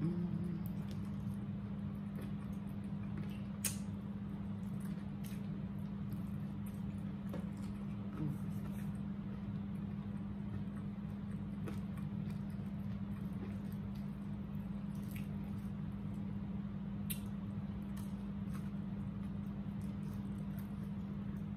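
Close-up eating sounds: soft wet chewing and mouth smacks as fried chicken is eaten, with a few sharp clicks, over a steady low hum.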